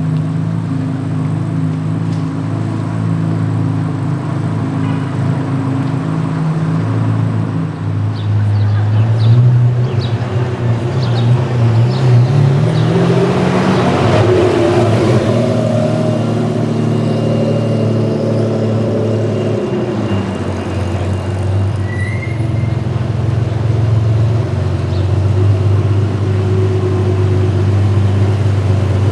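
Car engines running in street traffic. Around the middle one engine climbs in pitch as it speeds up, and there is a louder pass-by, before the steady engine drone settles again.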